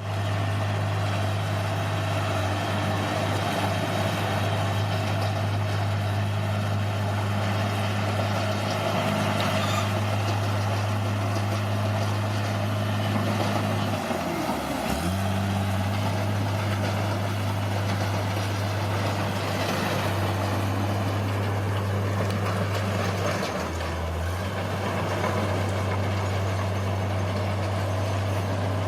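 Bulldozer's diesel engine running steadily. Its pitch sags and recovers about halfway through, and drops briefly again some nine seconds later.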